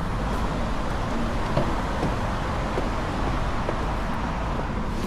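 2025 Mustang GT's V8 running steadily under way, with even engine and road noise and no revving.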